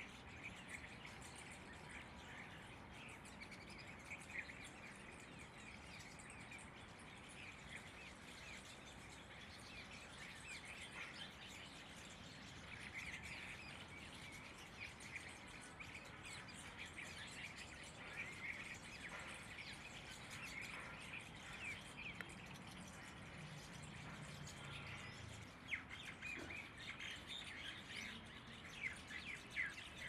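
Birds chirping: many short, high calls and quick trills, fairly faint, over a soft steady outdoor background, with a few sharper, louder calls near the end.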